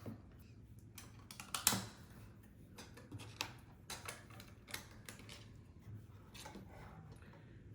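Irregular small clicks and clatter of plastic Lego bricks being handled and pressed together, with one sharper click about two seconds in.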